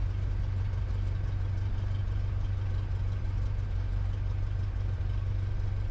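Cessna 172's piston engine running steadily at low taxi power, heard from inside the cabin as a constant low drone.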